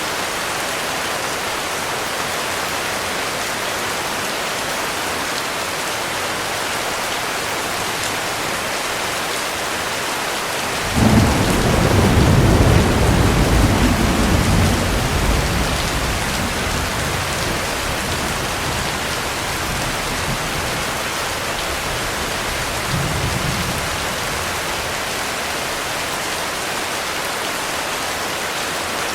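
Heavy rain falling steadily. About eleven seconds in, a sudden clap of thunder breaks into a deep rumble that fades over several seconds. A shorter, weaker rumble follows near the end.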